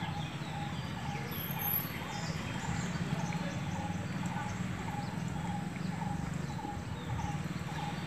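A bird repeating a short call about twice a second, over a steady low hum.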